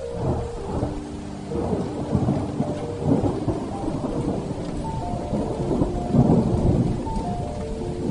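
Thunder rumbling in long rolling swells, loudest about two, three and six seconds in, over steady heavy rain, with a slow melody of held notes playing softly underneath.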